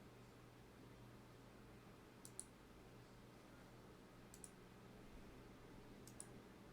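Faint computer mouse clicks: three pairs of quick clicks, about two seconds apart, over a low steady hum.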